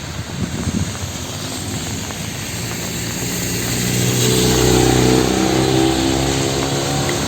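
A motor vehicle's engine passing close by on a wet city street, its pitched drone building from about halfway through to a peak and easing slightly near the end, over a steady hiss of rain and traffic.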